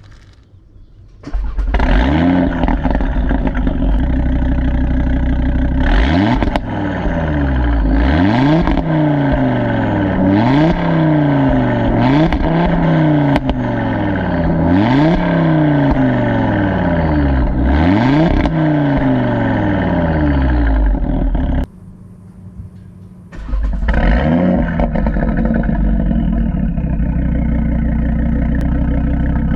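Audi RS3 8V's 2.5-litre turbocharged five-cylinder engine and exhaust, coming in loudly about a second in and revved over and over, the pitch climbing and falling every two to three seconds. The sound drops away for a moment near the 22-second mark and then comes back just as loud.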